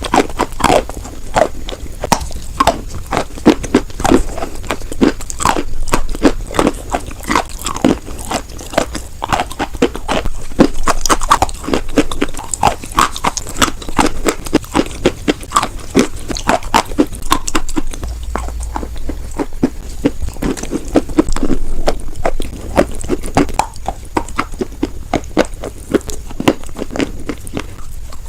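A person biting and chewing white chalk, with a close, continuous run of crunchy crackles.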